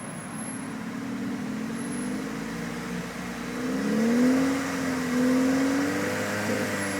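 Suzuki Swift Sport ZC32S 1.6-litre four-cylinder engine heard through a Greddy CS titanium aftermarket muffler, running low and steady, then revved about three and a half seconds in and held near 2,000 rpm, the pitch rising and wavering as the throttle is held.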